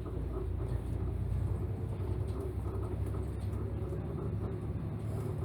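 City route bus heard from inside the cabin: a steady low rumble of the diesel engine and running gear.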